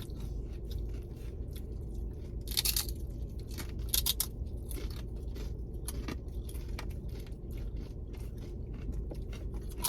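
Tortilla chips (nachos) being bitten and chewed, with scattered sharp crunches and crackles, over a steady low rumble.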